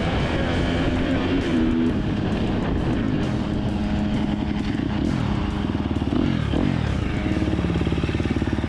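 Motorcycle engine running on the road, its pitch rising and falling as the throttle opens and closes, with a steady fast pulsing in the second half.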